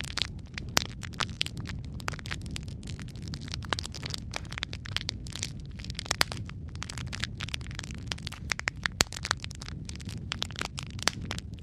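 Wood fire crackling in a fireplace: burning logs give a steady low rumble under frequent irregular pops and snaps, with a few louder cracks.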